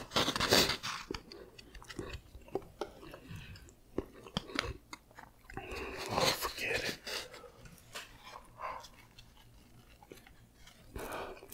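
Close-miked eating: wet chewing and lip smacks, with irregular clicks of a fork and spoon in a small paper cup.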